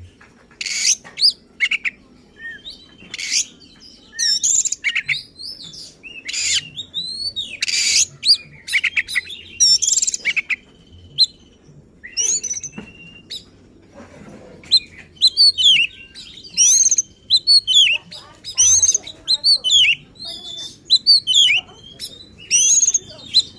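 Oriental magpie-robin (kacer) singing in full, aggressive song: rapid, varied phrases of sharp whistles, trills and harsh chatters with brief gaps, some notes held as a steady whistle. The bird is pouring out its repertoire of mimicked phrases ("bongkar isian").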